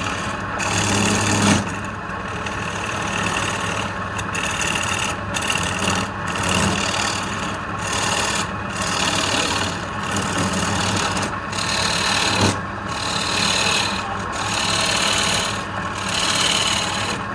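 Wood lathe running with a tool or abrasive worked against the spinning piece, giving a rasping hiss in repeated strokes about once a second over a steady low motor hum.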